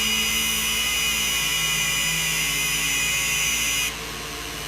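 Power tool running with a steady high-pitched whine, starting suddenly and easing off about four seconds in, then picking up again.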